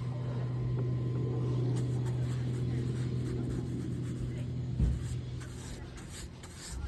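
A steady low motor hum, with light scratching over it and a single knock about five seconds in.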